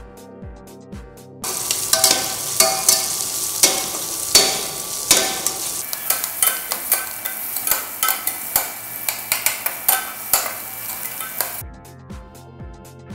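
Shallots frying in oil in a stainless steel pressure cooker, sizzling while a slotted metal spatula scrapes and clinks against the pot as they are stirred. The sizzling and scraping start about a second and a half in and stop near the end.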